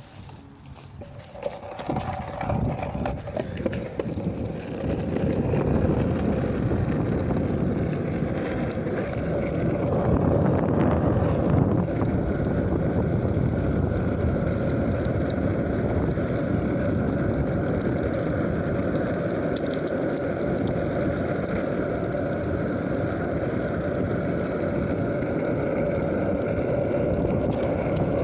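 Skateboard wheels rolling over pavement: a steady rumble with a constant hum running through it, growing louder over the first five seconds and then holding steady.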